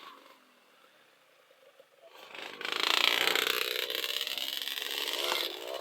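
Trail motorcycle engine revving hard, starting about two seconds in and staying loud, with the pitch rising and falling.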